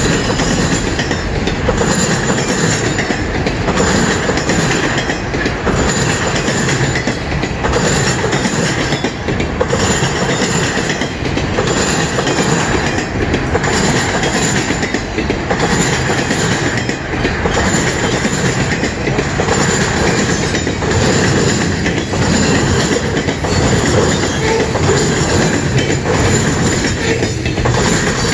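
Freight cars of a mixed freight train rolling past close by: a steady rolling noise of steel wheels on rail, with a regular clicking as the wheels cross the rail joints.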